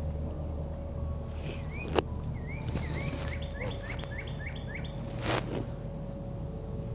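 A songbird singing a quick run of repeated slurred notes over a steady low rumble of wind on the microphone, with one sharp click about two seconds in and a short rustling burst near the end.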